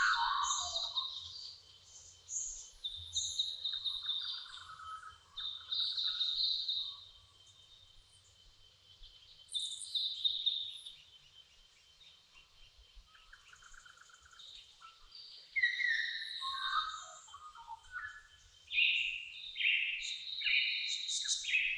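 Dawn chorus: several birds singing and calling at once, with quick chirps, trills and short whistled phrases. The calling thins out for a few seconds in the middle, then picks up again busily near the end, over a faint steady high whine.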